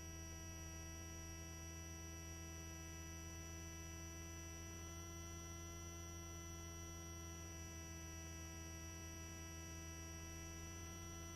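Helicopter cabin noise heard faintly through the headset intercom: a steady low hum with a set of steady whining tones from the turbine and gearbox, unchanging throughout.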